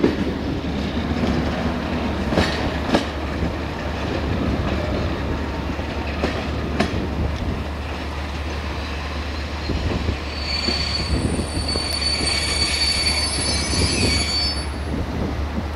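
Passenger train coaches rolling away over the rails, their wheels clicking over rail joints and points. About ten seconds in, a high-pitched wheel squeal starts and lasts about four seconds.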